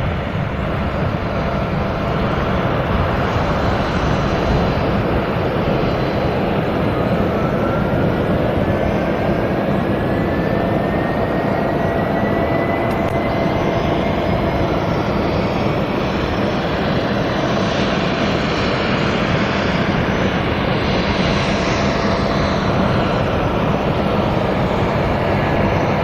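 Jet engines of a Boeing 767-300ER airliner running steadily during taxi, a loud, even rush with a thin whine that rises in pitch from about seven seconds in.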